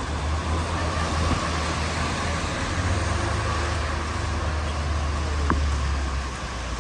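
Street traffic: a motor vehicle's low engine rumble close by, with steady road and tyre noise. The rumble drops away near the end.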